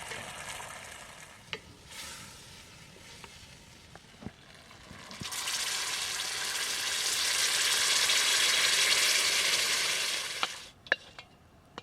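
Food frying in a pan over a campfire. The sizzle is quieter with a few clicks at first, grows much louder about five seconds in, then cuts off suddenly near the end, followed by a few sharp clicks.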